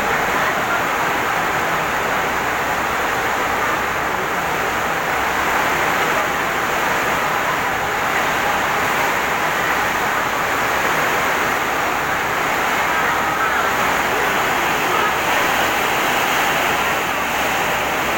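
Heavy rain driven by strong wind, a steady dense rushing hiss that neither builds nor lets up.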